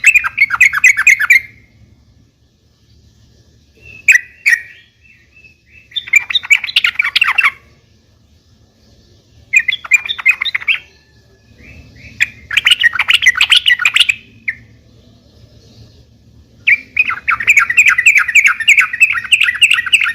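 Yellow-vented bulbul (trucukan) singing in short phrases of quick, bubbling repeated notes with pauses between them, about six phrases in all. The last and longest phrase is cut off at the end. A faint low hum runs underneath.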